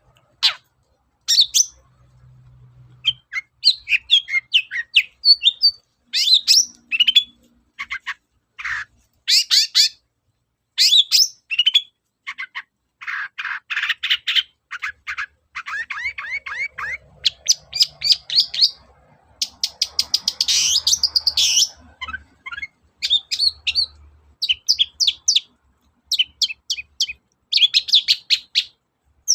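Long-tailed shrike (cendet) singing hard: a run of quick chirps and rapid trilled phrases, packed with notes borrowed from other birds, with a harsh, rasping stretch about twenty seconds in.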